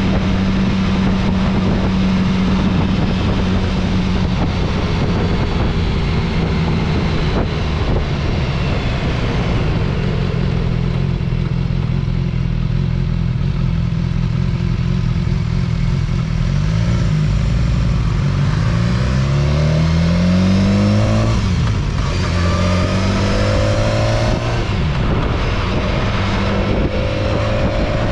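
Motorcycle engine running while riding, steady at first, then rising in pitch several times with sudden drops between during the second half as the bike accelerates.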